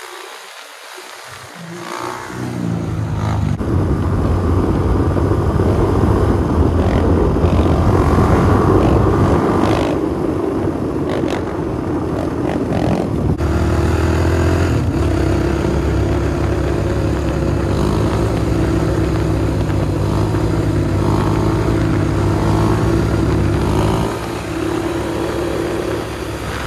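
Dirt bike engine running hard as the bike is ridden. It comes up about two seconds in and holds loud, its pitch rising and falling with the throttle.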